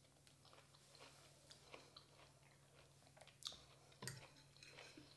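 Faint close-up chewing of a pickled cucumber, with small crunches and mouth clicks. A fork clinks on a ceramic plate about four seconds in.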